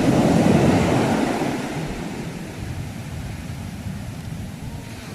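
Sea waves breaking and washing: the surge fades over the first two seconds, leaving a low rumble of surf, and the next wave begins to build near the end.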